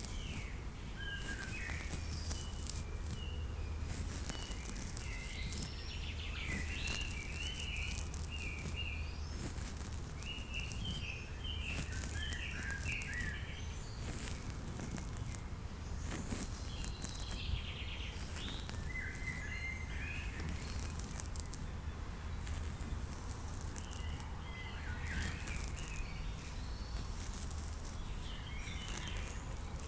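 Nature ambience with small birds chirping and singing in short scattered phrases over a steady outdoor background.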